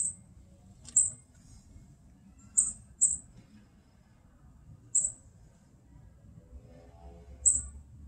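A small bird chirping: six short, high chirps at uneven gaps.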